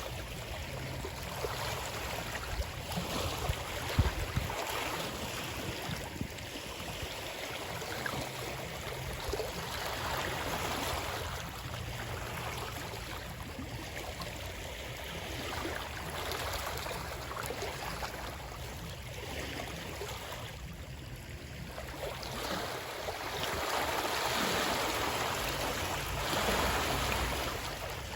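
Flowing water rushing steadily, its wash swelling and easing every few seconds. There is one brief low thud about four seconds in.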